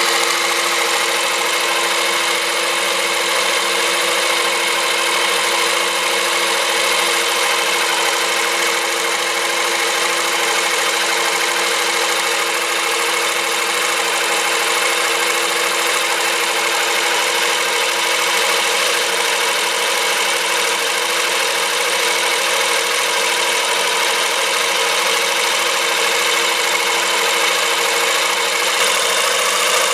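Small cordless-drill electric motor running at a constant speed, turning a scale model engine's moving pistons through a drive shaft: a steady whine over a dense mechanical buzz.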